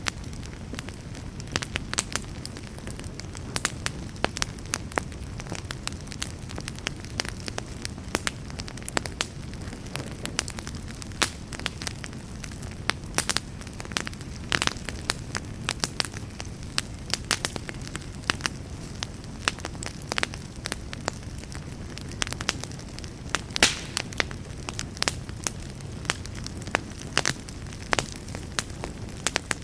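Campfire burning: a steady low rush of flame under frequent, irregular crackles and sharp pops.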